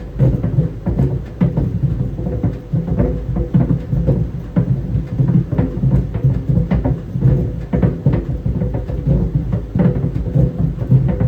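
Tennis balls tumbling in a running clothes dryer, hitting the drum in irregular dull thuds about two or three times a second over a steady hum.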